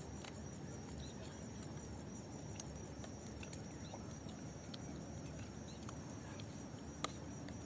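Faint open-country dusk ambience: scattered short bird chirps over a low steady rumble, with a thin high whine throughout and one sharp click about seven seconds in.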